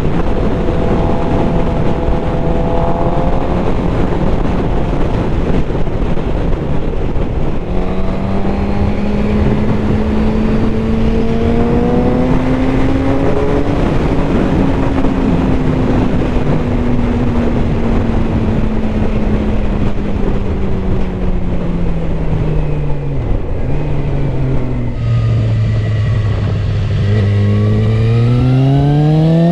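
Suzuki GSX-R750 inline-four engine under way on the road: it holds steady revs, climbs and slowly eases off, settles at low revs, then rises steeply near the end as the bike accelerates, over a constant rush of wind and road noise.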